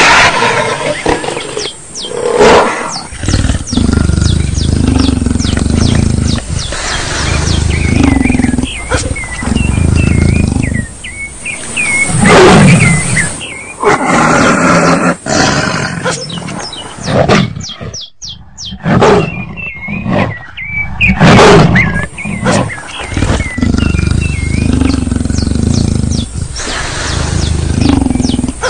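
A flock of birds calling noisily as they are fed: many short, repeated chirping calls, over a loud low rumble of background noise.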